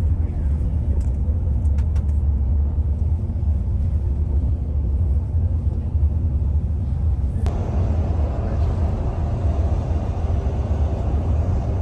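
Inside a moving coach: a steady low engine and road rumble, with the tyre and road hiss growing louder from about seven and a half seconds in.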